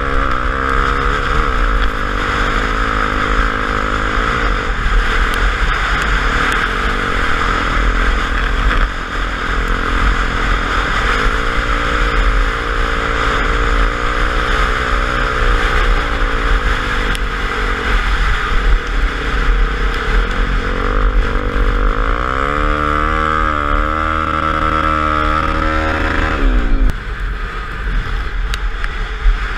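Motorcycle engine running under way, with heavy wind noise on the microphone. Its pitch climbs steadily for a few seconds as the bike accelerates, then drops off suddenly near the end as the throttle is closed.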